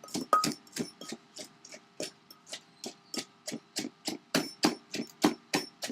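Pestle pounding green papaya in a mortar for som tam, with steady knocks about three a second that stop just before the end. This is the 'pok pok' sound the Thai dish is named for.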